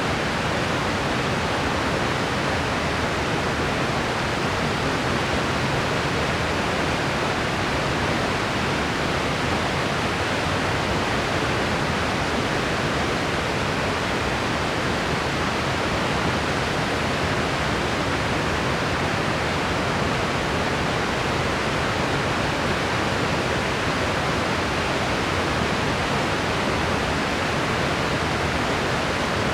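Steady, unchanging white-noise track: an even hiss, fuller in the lower and middle range than at the top, with no variation or separate events.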